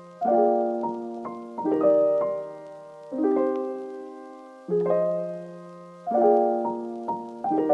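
Background piano music: soft sustained chords struck about every second and a half, each fading before the next.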